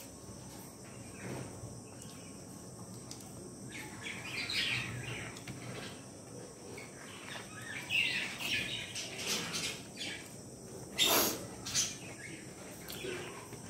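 Birds chirping at intervals in the background. Two sharp clicks come close together near the end.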